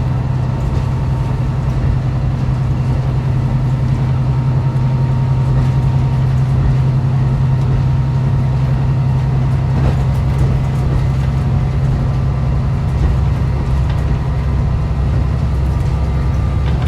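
Diesel railcar running, heard from inside the car: a steady low engine drone over wheel and rail noise, with a faint knock about ten seconds in.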